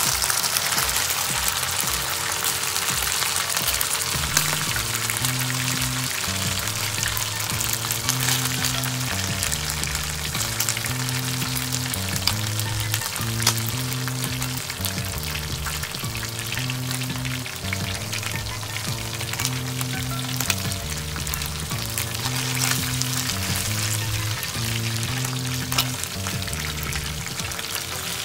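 Chicken pieces frying in hot oil in a pan: a steady, dense sizzle with constant small crackles and pops. Background music with a repeating low bass line comes in about four seconds in.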